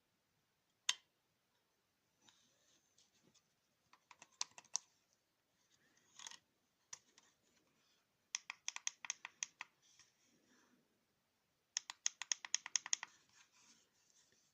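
Small hard plastic parts being handled and clicked: one sharp click about a second in, scattered scraping, then two quick runs of rapid clicks, about ten a second, near the middle and towards the end. No fan motor is heard running.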